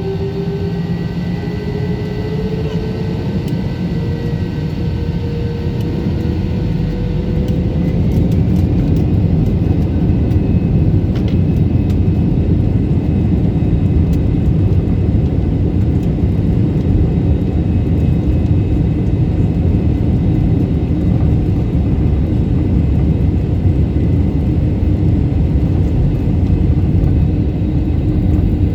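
Airliner jet engines spooling up for takeoff: a rising whine for about the first eight seconds, then a louder, steady rumble at takeoff thrust during the takeoff roll and climb-out.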